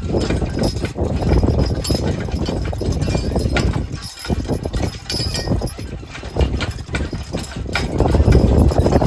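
Hooves of a team of draft horses clip-clopping steadily as they pull a driving vehicle.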